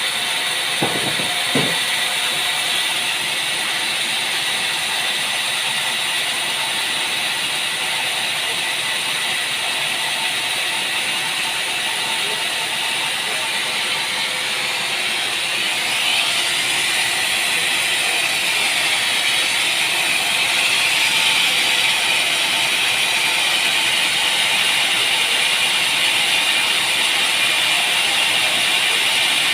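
Sawmill machinery running steadily with a high mechanical whine, two sharp knocks about a second in, and the pitch rising and falling again around the middle.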